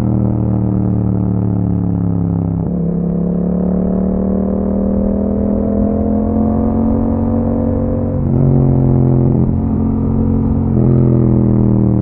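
2021 Yamaha MT-07's 689 cc parallel-twin engine running through an Akrapovic exhaust with a dB killer, under way. Its pitch climbs slowly as the bike accelerates, and the note changes abruptly about 3, 8 and 11 seconds in, as with gear changes.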